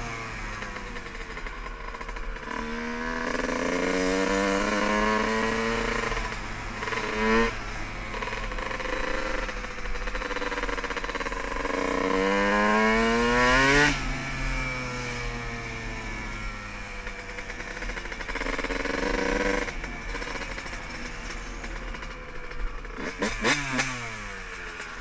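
Dirt bike engine accelerating in long rising sweeps, dropping off sharply about seven and fourteen seconds in, then running on at lower revs. There are quick blips of revs near the end.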